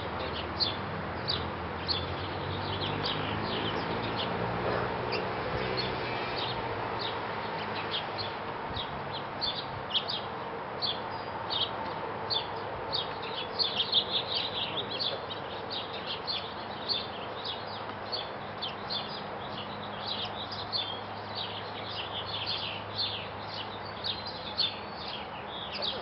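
Small birds chirping in quick, short high notes, on and off throughout and busiest about halfway through, over a steady low background hum.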